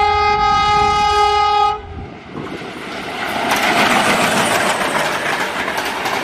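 Diesel locomotive's horn sounding one steady blast that stops about two seconds in. Then the train passes close by, building into a loud rush of wheels on rail with rapid clattering.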